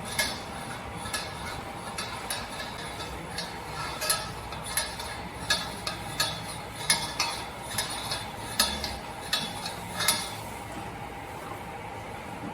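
Cow eating feed: a run of crisp crunching chews, roughly one every half second to second, that stops about ten seconds in, over a steady background hum.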